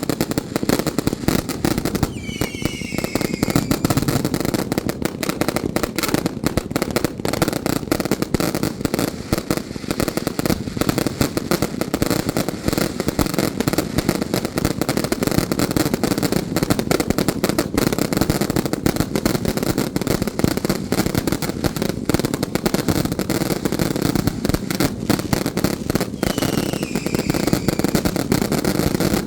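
Firecrackers going off continuously in a dense, unbroken crackle of rapid pops. A whistle falls in pitch about two seconds in, and again near the end.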